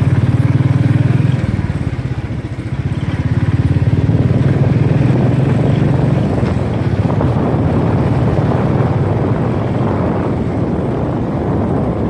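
Royal Enfield Thunderbird's single-cylinder engine running on the road with a loud, steady exhaust beat. It eases off about a second and a half in, then picks up again.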